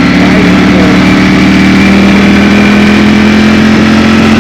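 Ducati Streetfighter V4 S's V4 engine running steadily under way, its pitch holding with a slight rise partway through, over a loud rushing hiss.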